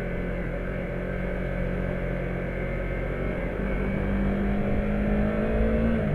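Yamaha MT-03 motorcycle engine running at a steady pace, then rising in pitch about halfway through as it accelerates, with a sharp drop in pitch at the very end as it shifts up.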